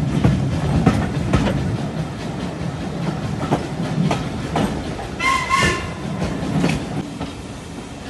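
Train wheels running over rail joints: a steady rumble with irregular clickety-clack knocks, and a brief high-pitched tone about five seconds in.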